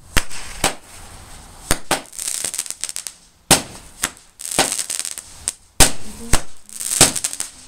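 Fireworks going off: about a dozen sharp bangs spaced unevenly, with fizzing, crackling hiss between them.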